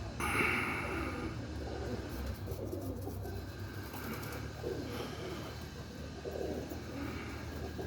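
Domestic pigeons cooing, soft low calls repeating every second or so, with a brief rush of noise about half a second in.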